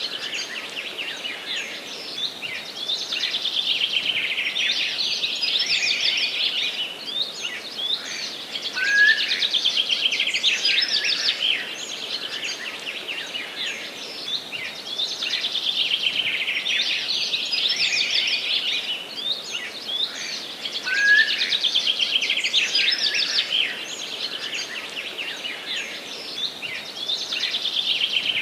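Songbirds singing in a forest: rapid, high-pitched trills and chirps that swell to a peak about every six seconds, over a faint steady hiss.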